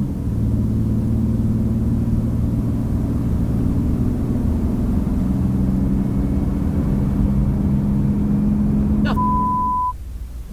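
Steady low drone of a running engine, then a short high-pitched beep about nine seconds in.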